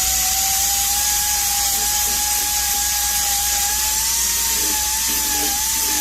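A small power tool running steadily: a whine that wavers slightly in pitch over a constant hiss.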